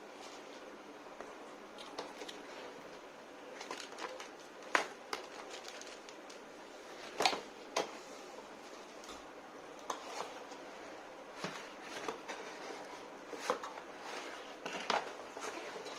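Hands handling a laptop and its packaging: irregular clicks, taps and rustling, with a few sharper clicks scattered through, over a steady hiss.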